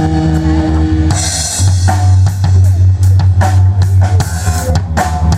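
Live rock band playing an instrumental passage: a held chord, then about a second in a cymbal crash and the drum kit and bass guitar come in with a steady beat under the guitar.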